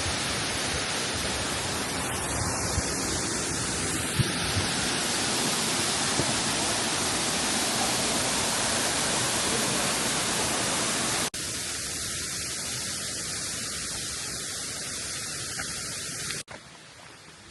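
Steady rushing roar of a nearby waterfall. The sound changes abruptly at cuts: it is slightly quieter after about eleven seconds, then much quieter near the end.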